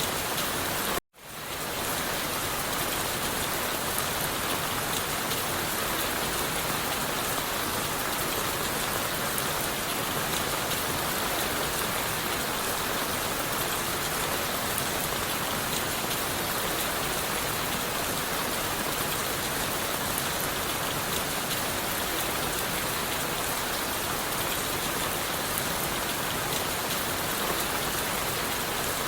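Steady rain falling on leaves and wood, an even, unbroken hiss. About a second in, it cuts out abruptly for an instant and quickly comes back.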